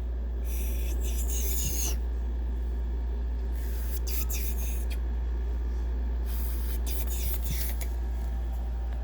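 Several short bursts of rustling and rubbing, like handling noise on the microphone, over a steady low hum.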